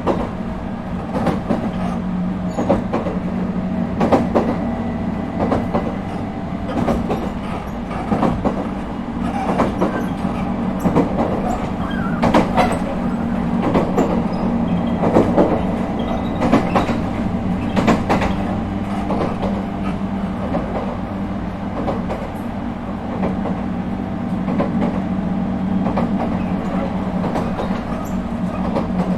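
Running sound inside an Echigo Tokimeki Railway ET127 series electric multiple unit, refurbished with Toyo IGBT-VVVF traction equipment: a steady low rumble with many wheel clicks and knocks over the rail, busiest around the middle.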